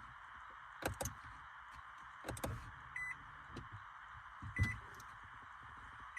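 A car's electronic warning chime beeping twice, about a second and a half apart, among a few clicks and knocks, over a steady hiss.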